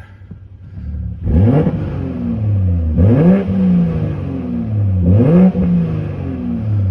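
BMW M240i's B58 turbocharged inline-six with the muffler deleted, blipped from idle three times, each rev rising sharply and falling back to idle. Heard from inside the car with the driver's door open.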